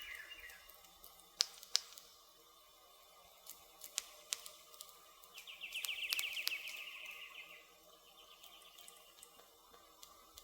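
Wood fire crackling with scattered sharp pops. A high, rapid trilling call runs for about two seconds in the middle, and another trill fades out just after the start.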